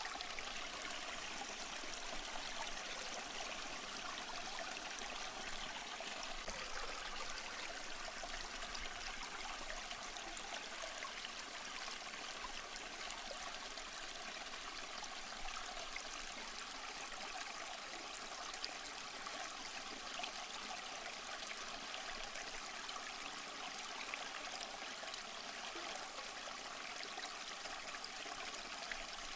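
Small stream flowing and trickling over rocks, a steady even splashing with no breaks.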